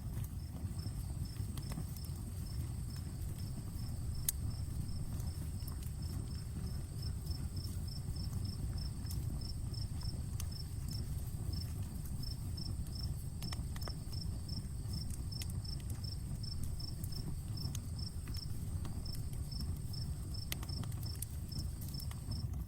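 Outdoor campfire crackling, with sparse sharp pops over a steady low rumble of burning. Through it a cricket chirps in an even, rapid series, about three chirps a second, over a steady high insect drone.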